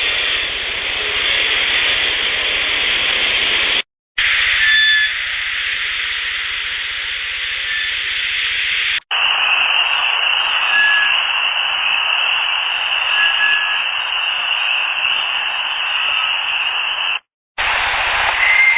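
Several outdoor field-recorder clips spliced back to back, each ending in a sudden short dropout. Mostly steady hiss, with a few brief faint high whistle-like tones over it.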